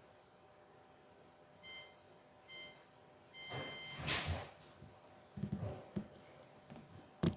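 Washing machine control panel beeping: two short beeps, then one longer beep. A brief rushing noise, a few low knocks and a sharp click follow.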